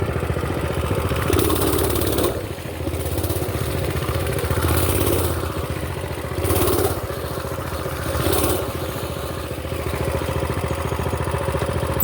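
Mini bike's small engine running steadily, its sound swelling briefly several times as it rides.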